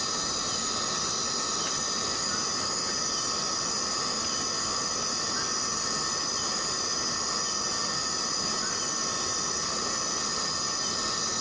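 Steady rain with a constant drone of rainforest insects: several unbroken high tones held over the rain's even hiss.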